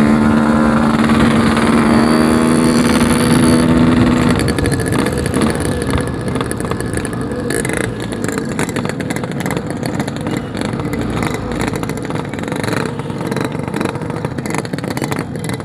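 Yamaha RX-King's 135cc two-stroke single-cylinder engine under way, holding steady revs for about four seconds before the revs drop and it carries on rougher and lower. The owner puts the uneven low-rev running down to a carburettor set too rich.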